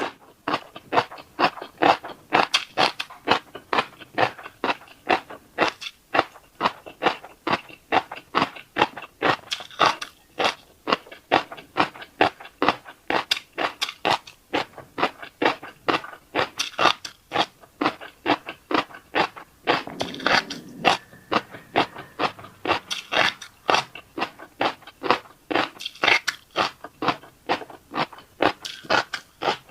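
Close-up chewing of fish roe: crunchy crackling as the eggs pop between the teeth, several small crackles a second in a steady run.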